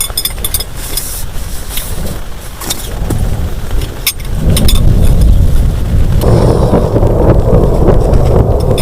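Heavy rain with sharp taps of drops striking a shelter, then a deep roll of thunder that builds about halfway through and grows louder near the end.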